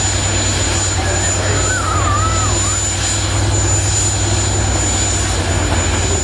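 Pulling tractor's engine running steadily and loud.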